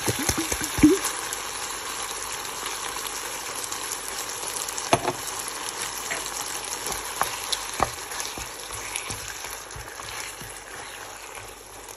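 Chicken and onions sizzling in a frying pan while curry paste is spooned in, with a few sharp knocks of the utensil, the loudest about a second in. The sizzle gets quieter near the end as the paste covers the meat.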